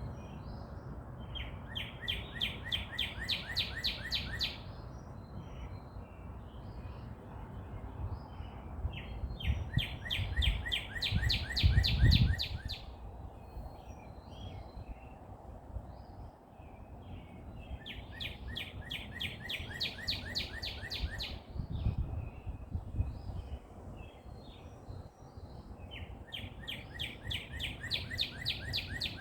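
A songbird repeating a song of rapid, evenly spaced notes, each run lasting about three seconds and coming back about every eight seconds, with other birds chirping briefly in between. A low rumble runs underneath and swells twice.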